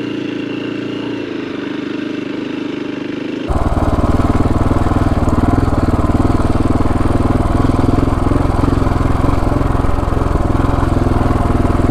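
Single-cylinder Husqvarna dual-sport motorcycle engine running steadily at low speed off-road. About three and a half seconds in, the sound jumps abruptly to louder and fuller with a stronger low rumble.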